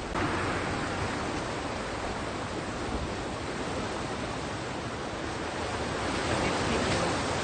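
Sea surf breaking and washing on the shore, a steady rushing that swells just after the start and again near the end as waves come in.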